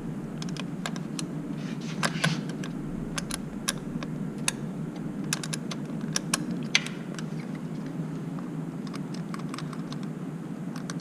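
Irregular sharp metal clicks and taps of a 10 mm wrench working the nut on a motorcycle's throttle cable adjuster, most of them in the first seven seconds, over a steady low hum.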